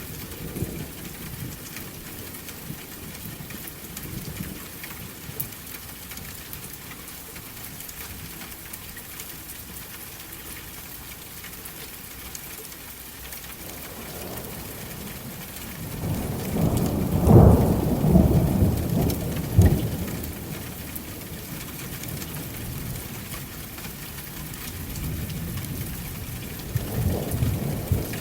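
Steady rain with thunder. A long roll of thunder swells a little past halfway and peaks twice, and a lighter rumble comes near the end.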